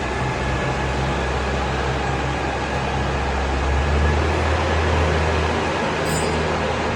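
Backhoe loader's diesel engine running steadily with a low rumble, getting a little louder about four seconds in.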